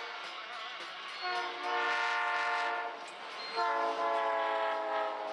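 Train horn sounding two long blasts, the second sagging slightly in pitch as it goes.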